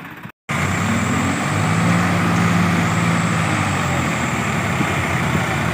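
A brief dropout under half a second in, then a tractor's diesel engine running loud and steady.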